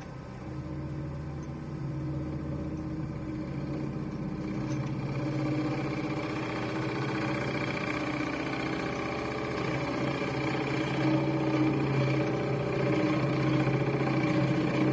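Wood lathe running with a steady motor hum. About four seconds in, a rougher, wavering noise rises over the hum and grows louder toward the end, as a tool works the spinning pine.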